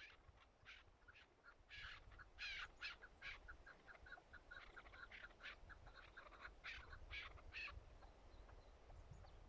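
Chukar partridge calling: a rapid run of short notes, several a second, with louder, longer calls mixed in, stopping about eight seconds in.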